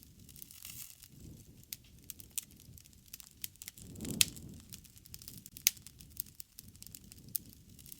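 Wood campfire burning, with irregular sharp crackles and pops over a low, soft rush of flame. The loudest pop comes about four seconds in, on a brief swell of the rumble.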